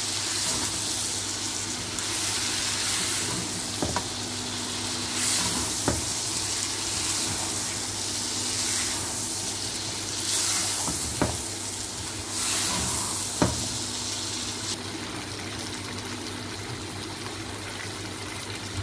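Spiced chicken pieces sizzling in a nonstick frying pan while being stirred with a spatula, with surges of sizzle as the pieces are turned. The spatula knocks against the pan four times, and near the end the stirring stops and the sizzle goes on steadily.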